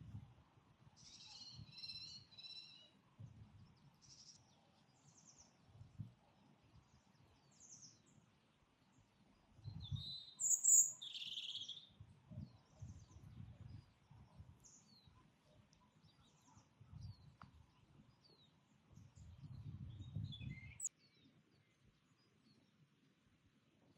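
Wild birds singing and chirping in short, separate phrases, with a quick chatter near the start and the loudest calls about ten seconds in. An intermittent low rumble sits underneath.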